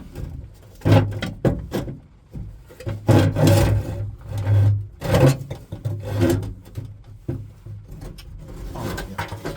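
Scraping, rubbing and knocking in irregular bursts as a loosened, wing-nut-fastened part is worked and wrestled out of a tight space on a Bedford RL truck.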